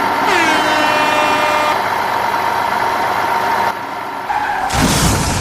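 Steady engine-like hum of a vehicle sound effect, with a falling whistle shortly after the start and a loud rumbling burst near the end.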